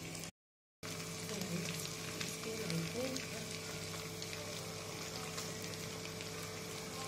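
Chicken pieces frying in ghee in an open pressure cooker over a gas flame: a steady sizzle with fine crackles. The sound drops out completely for about half a second near the start.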